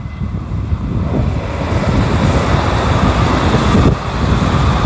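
Kintetsu limited express electric train approaching and passing close by, its rolling noise swelling from about half a second in and staying loud as the cars go by, with wind buffeting the microphone.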